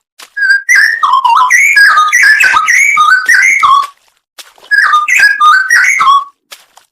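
Straw-headed bulbul (cucak rowo) singing: two loud phrases of whistled notes that jump up and down in pitch, with a short pause between them about four seconds in.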